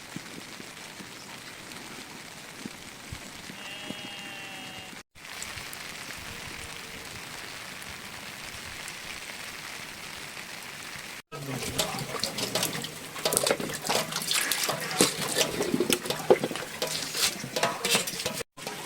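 Rain falling as a steady hiss, then, after a cut, louder irregular splashing and dripping of rainwater with many sharp drop impacts.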